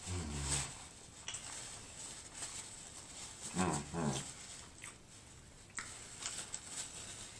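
Person chewing a fried chicken sandwich with the mouth closed: wet lip smacks and sharp mouth clicks. There is a short hummed "mm" at the start and two more close together about halfway through.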